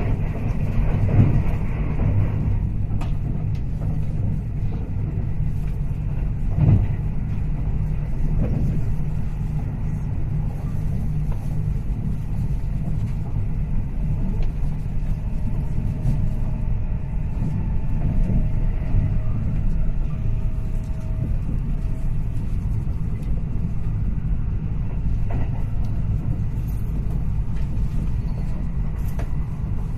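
Steady low rumble of a moving vehicle, with a louder hiss that drops away about two and a half seconds in.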